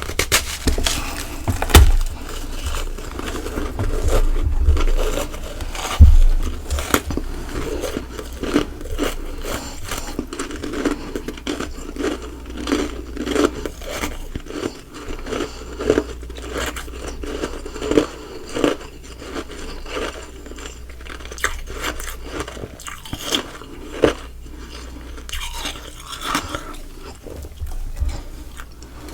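Close-miked crunching and chewing of ice: a long run of bites and crunches, loudest about two seconds in and again around six seconds.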